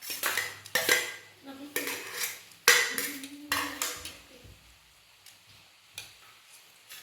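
Metal kitchen utensils and vessels clattering and clinking: a run of knocks, some leaving a short ringing tone, that dies away about halfway through, with a couple of faint clicks near the end.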